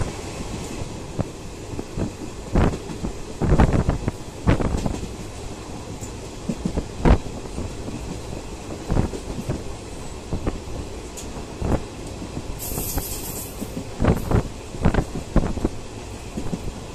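Moving train heard from inside a coach: a steady rumble of wheels on rail, broken by irregular clacks and thumps as the wheels pass over rail joints. At the start, a goods train of covered wagons clatters past on the adjacent track. A brief hiss comes about 13 seconds in.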